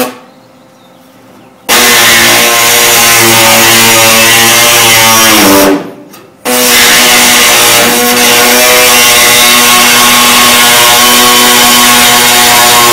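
A body saw cutting through the steel tail light panel of a 1965 Mustang, with a loud, steady buzz. About six seconds in it stops, the pitch falling as it winds down, then it starts up again and cuts on.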